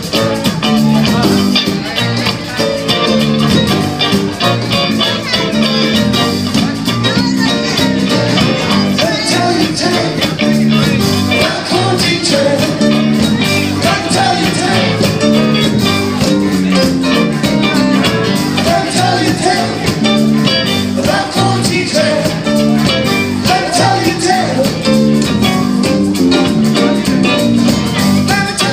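Live band playing on stage: loud amplified guitar-driven music with a steady beat and some singing.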